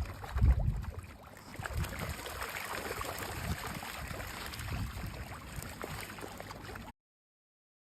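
Water sloshing and gurgling, with a few low thumps in the first second or two.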